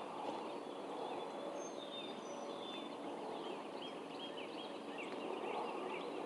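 Steady outdoor background hiss with many short, high chirps scattered through it.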